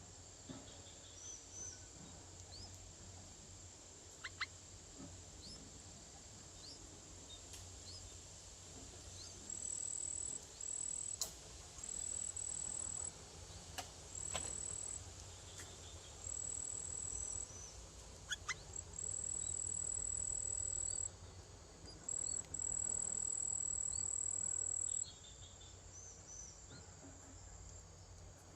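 Insects trilling: a constant thin high buzz, with louder bouts of steady high trilling that switch on and off, each one to three seconds long. Scattered faint bird chirps and a few sharp clicks sound over it.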